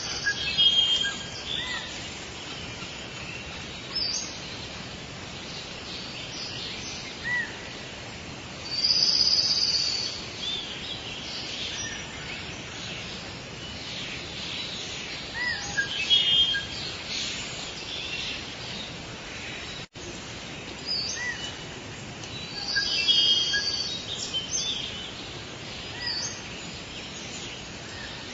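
Forest birds chirping and calling over a steady hiss of ambient background, with louder bursts of high calls every few seconds. The sound drops out for an instant about two-thirds of the way through.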